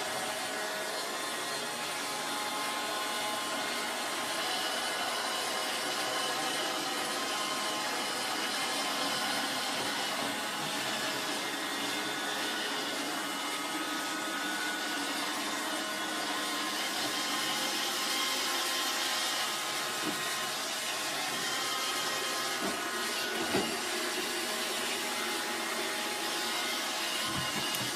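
iRobot Roomba 700-series robot vacuum running on a carpet: a steady motor and brush hum with thin whining tones over it. A single short knock comes about two-thirds of the way through.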